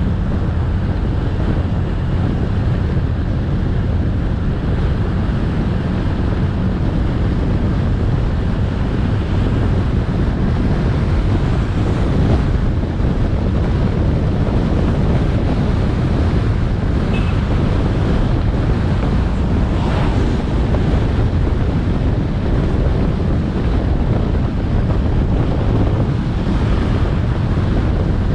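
Moving motorbike: steady wind noise buffeting the microphone over the low steady engine hum and road noise.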